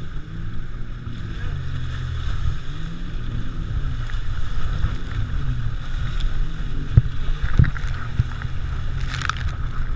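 Pontoon boat under way: its motor running steadily beneath wind noise on the microphone, with two sharp knocks about seven seconds in.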